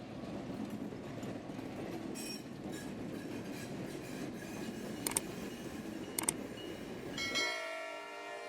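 Train rolling past on the rails: a steady rumble with brief high wheel squeals and two sharp clicks about five and six seconds in. About a second before the end, the rumble gives way to a locomotive horn sounding a steady chord.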